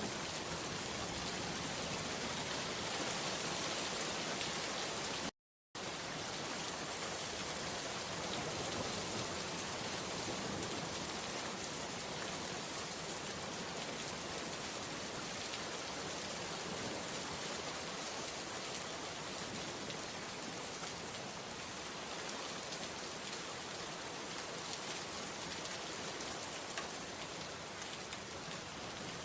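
Steady rainfall, a dense even patter of rain on a surface. It drops out to complete silence for a split second about five seconds in, then resumes unchanged.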